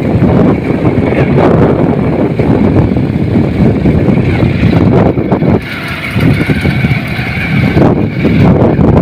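Road vehicle travelling, with road and engine noise and wind buffeting the microphone. A thin steady high whine comes in over the second half.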